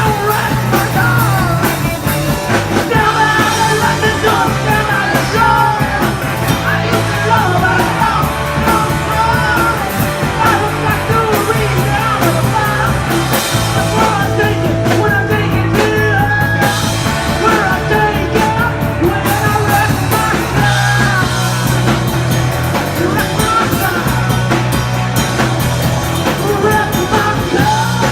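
Loud punk rock band playing, with electric guitars, bass and drums and a wavering melodic line over them that may be a voice or a lead guitar, with a bass line that moves every couple of seconds.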